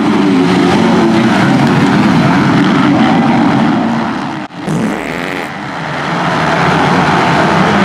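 Motocross dirt bike engines running hard at high revs, with a brief sharp drop about halfway through before the engine noise returns.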